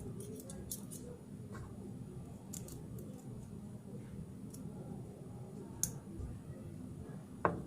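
Small clicks and light scrapes of a tool on espresso-valve parts as the valve is taken apart, over a steady low hum, with two sharper clicks in the second half.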